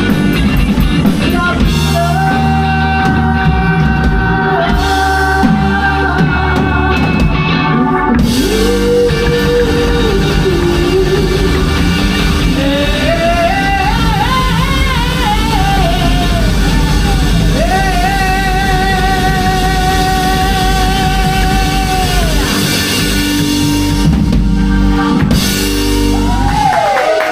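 Live rock band playing, with electric guitar, drum kit and long held, wavering sung or lead notes over the full band; the music stops at the very end.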